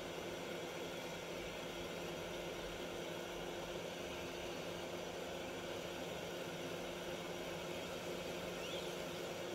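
Hot air rework station blowing steadily while heating off a metal shield on a phone motherboard: an even rush of air with a steady fan hum.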